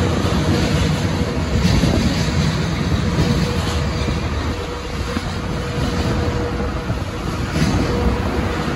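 Locomotive-hauled passenger train of 12 series coaches running along the track: a steady rumble with a faint hum and a few scattered rail-joint clicks.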